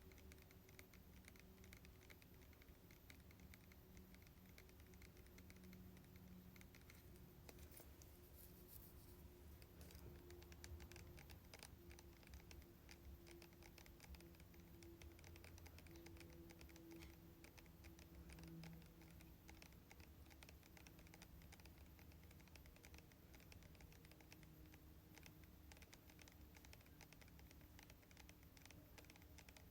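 Faint, light tapping on hair-product containers, a run of small quick ticks over a faint steady hum.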